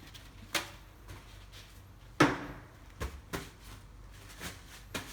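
Kitchen cookware and utensils being handled on a counter: a string of separate knocks and clatters, the loudest about two seconds in.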